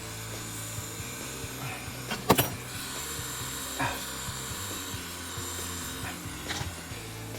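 Jeweler's soldering torch hissing steadily while silver solder is heated on the piece, with a sharp metallic clack a little over two seconds in and a couple of lighter taps of tools later.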